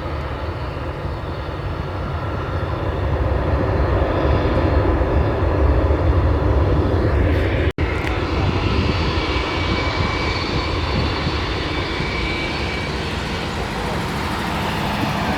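Airliner engines rumbling as an aircraft passes close by, swelling to their loudest about six seconds in. The sound cuts out for an instant near eight seconds, then continues as a steady engine noise with a faint high whine.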